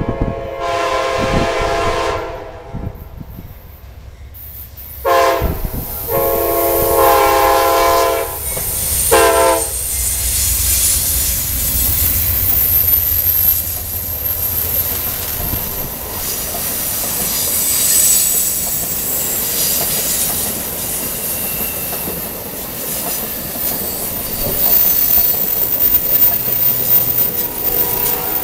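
Amtrak locomotive K5LA five-chime horn sounding three blasts (long, long, short), then the passenger train rolling past with steady wheel and rail noise, clickety-clack and a faint high wheel squeal.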